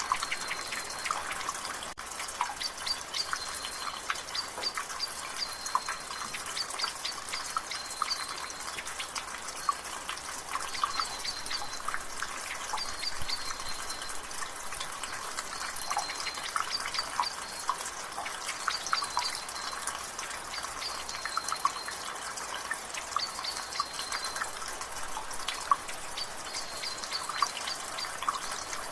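Rainwater dripping from a gutter in quick, irregular drips over the steady hiss of drizzle, with a bird chirping repeatedly in the background.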